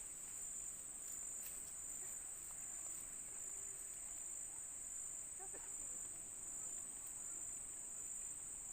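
Insect chorus: a steady, high-pitched shrill trill that pulses slightly and regularly in loudness.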